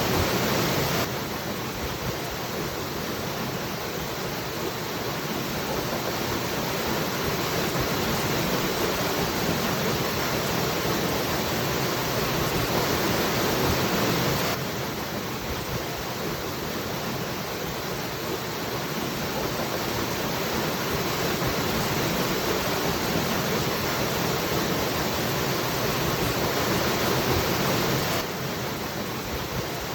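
Steady rushing of a waterfall, an even wash of noise. The level drops suddenly by a little about a second in, again midway and again near the end.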